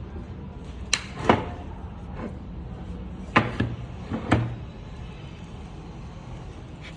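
A series of sharp knocks and clunks of hard objects being handled: two close together about a second in, a fainter one a little later, and a quick cluster of three or four more around the middle, over a steady low hum.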